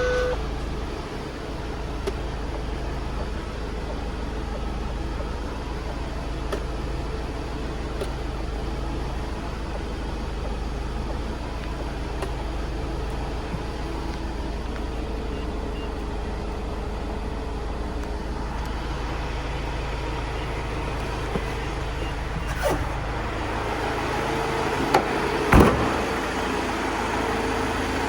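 Iveco Daily 2.3 four-cylinder turbodiesel van engine running steadily, with a couple of sharp knocks near the end.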